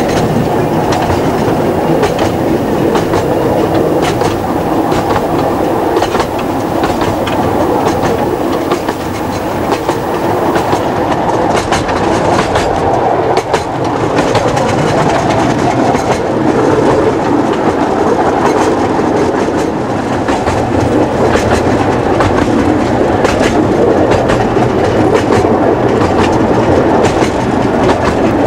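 Miniature light-railway train running along the track, heard from aboard a carriage: a steady rumble of wheels on rail with repeated clickety-clack of the wheels over rail joints.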